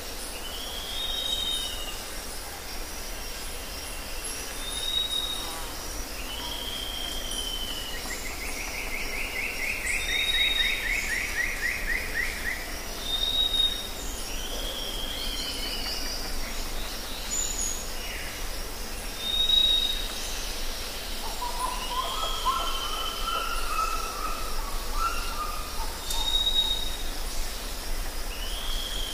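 Birds calling over a steady natural background hiss. Short whistled notes, some falling in pitch, repeat every few seconds; a fast trill comes about eight seconds in and lasts a few seconds, and lower warbling calls come around twenty-two seconds in.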